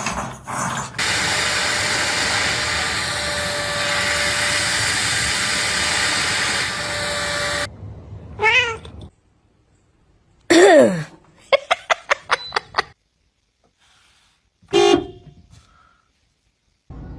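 Domestic cat meowing in several short calls, the loudest one falling in pitch, with a quick run of sharp clicks between them. Before the meows, a steady rushing noise runs for several seconds and cuts off suddenly.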